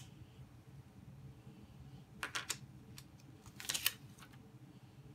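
Plastic LEGO pieces being handled and snapped together, giving a few sharp clicks about two seconds in and a quick cluster of clicks near four seconds.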